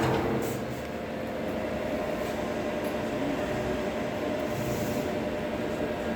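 Pouwels DEF 1000 CNC wood router running: a steady machine hum with a faint steady whine, settling down from a louder stretch in the first second.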